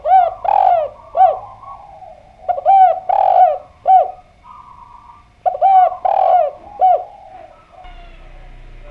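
Spotted dove (derkuku) cooing in three phrases a couple of seconds apart. Each phrase is three or four arching, rolling coos.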